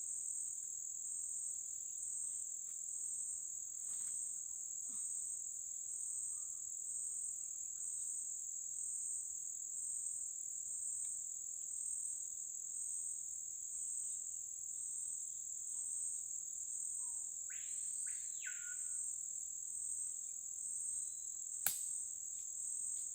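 Rainforest insect chorus: a steady high, finely pulsing buzz. About eighteen seconds in a bird gives a brief call of two quick whistled notes that swoop up and down, and a single sharp click sounds near the end.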